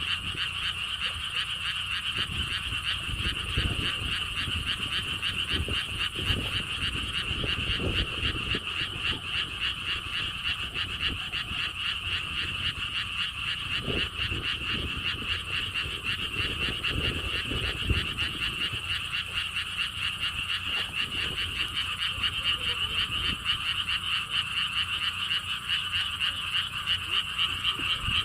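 Dense chorus of many frogs calling without a break, a fast pulsing trill, with wind buffeting the microphone as an irregular low rumble.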